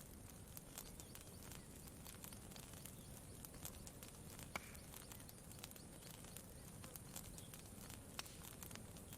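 Faint campfire crackling: scattered small pops and snaps at irregular intervals over a low, steady background hiss, with one sharper snap about halfway through.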